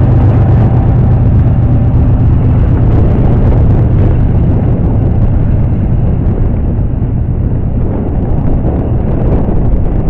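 Diesel locomotives of a double-stack freight train passing close by, a loud steady low engine drone that eases slightly as they pull away, with the rumble of the container cars following.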